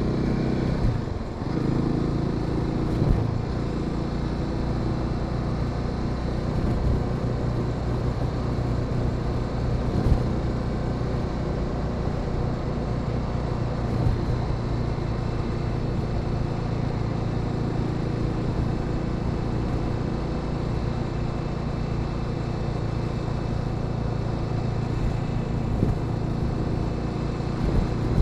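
Honda Sahara 300's single-cylinder engine running steadily while riding, with wind and road noise. About a second in, the engine note dips and changes pitch before settling into a steady cruise, and a few light knocks come through later.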